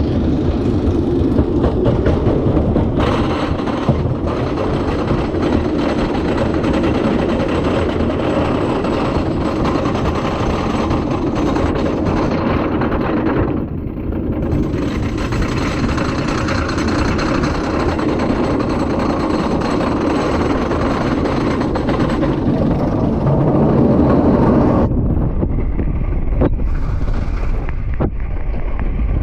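Wooden roller coaster train rumbling and rattling along its track, heard from on board as a loud, continuous noise. The higher part of the noise thins briefly about 13 seconds in and again after about 25 seconds.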